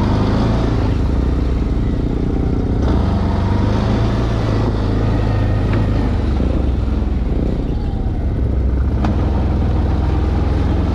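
A motor vehicle running, giving a steady low drone with no change in pace, and a few faint ticks over it.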